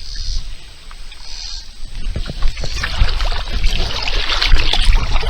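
Kayak paddle strokes in calm lake water: the blades dip and water splashes and drips off them, growing louder from about two seconds in, over a steady low rumble.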